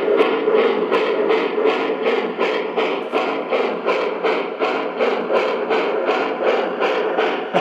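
MTH Proto-Sound steam locomotive sound system chuffing steadily, about three chuffs a second, played through the model engine's small speaker.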